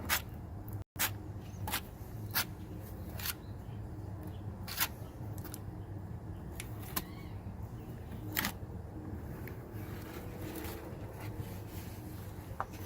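Scattered clicks and scrapes of Super Bond filler being worked into damaged fiberglass on a boat hull, a sharp tick every second or so over a steady low hum.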